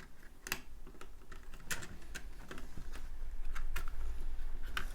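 Plastic Lego pieces being handled, pulled off and pressed together: about nine light, uneven clicks and taps.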